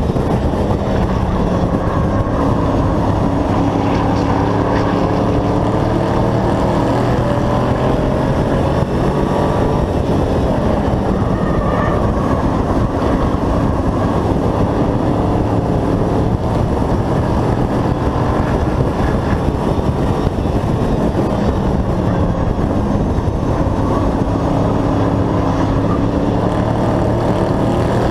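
Hobby-class race truck engine running hard under racing load, heard onboard, with its pitch slowly rising and falling as it goes through the corners and straights over a heavy steady rumble.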